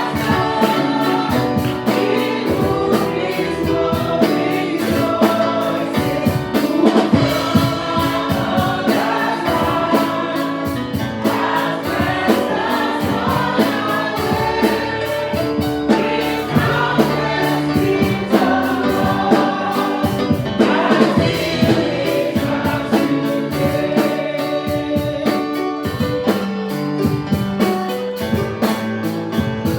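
Gospel choir and congregation singing a praise-and-worship song over a band with drum kit.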